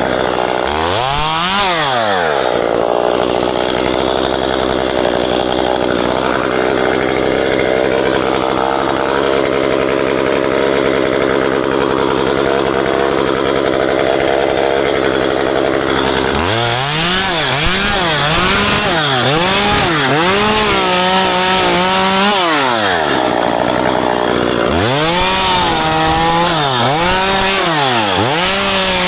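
Gas chainsaw running: revved at first, then held at a steady high speed for over ten seconds, then revved up and down repeatedly through the second half.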